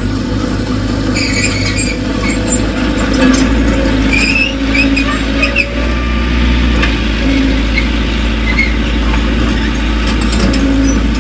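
Bulldozer's diesel engine running steadily, with short high-pitched squeals scattered through, heaviest in the first half.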